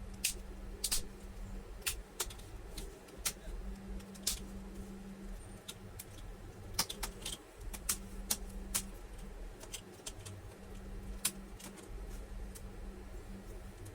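Scattered light clicks and clinks of small tools and laptop parts being handled during disassembly, over a faint low hum that comes and goes.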